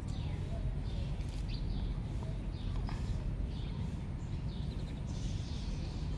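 Small birds chirping, many short falling high chirps at irregular intervals, over a steady low rumble.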